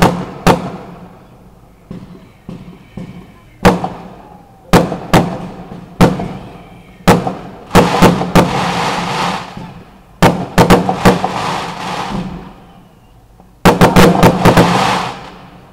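Fireworks bursting overhead in a run of sharp bangs, several coming in quick clusters, with a crackling hiss trailing the bigger clusters.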